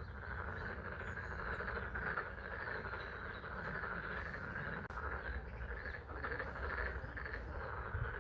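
A chorus of frogs calling continuously at a pond, with spring rain falling and a low steady rumble underneath.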